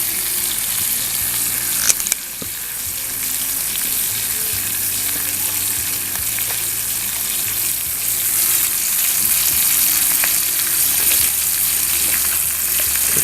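Rattlesnake pieces sizzling steadily as they fry in a pan, with a short clatter about two seconds in.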